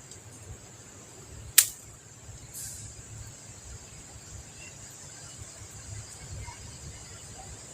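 Steady high-pitched drone of insects, with one sharp click about a second and a half in.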